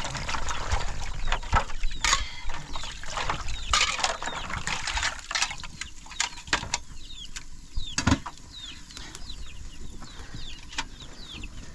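Chickens clucking and chirping, with many short falling chirps repeating, and scattered knocks and clatter.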